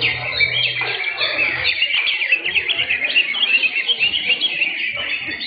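Several caged cucak hijau (greater green leafbirds) singing at once, a dense, continuous overlap of fast chirps and short whistled phrases.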